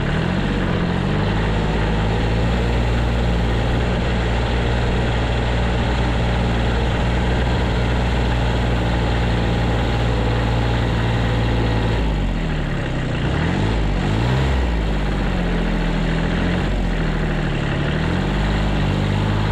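1978 Kubota B6100 tractor's 14 hp diesel engine running close by, steady at first; about twelve seconds in its pitch dips and rises several times as the revs change while it plows snow.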